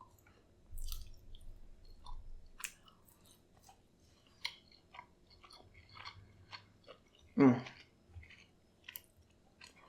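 A person chewing and eating close to the microphone, with soft scattered mouth clicks and smacks as she eats tender lamb shank and rice.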